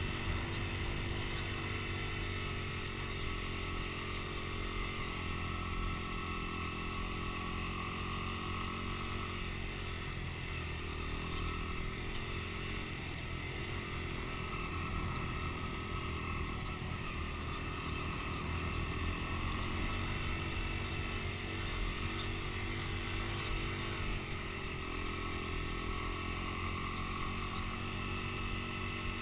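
Dirt bike engine running steadily for the whole stretch, its pitch rising and falling slowly a few times as the throttle changes.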